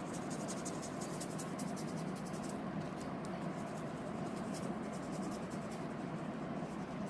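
Paintbrush strokes scratching softly and repeatedly across the painting surface as gray paint is brushed on, over a steady faint room hiss.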